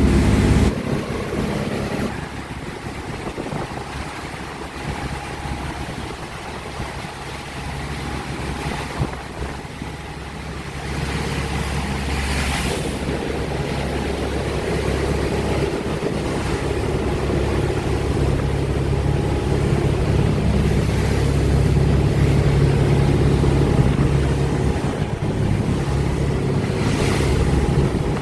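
Motorboat engine running steadily under way, with wind and water noise from the hull moving across open water. It drops somewhat quieter a couple of seconds in, then comes back up about eleven seconds in, with a few brief swells of rushing noise.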